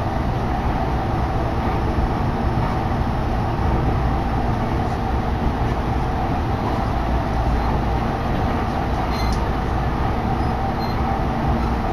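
Chuo Line commuter train running between stations, heard from inside the car: a steady rumble of wheels on rail and running noise, with a brief faint click about nine seconds in.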